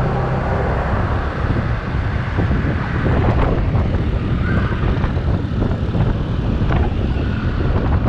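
Motorcycle riding in traffic: the engine's steady drone under a rush of wind on the microphone.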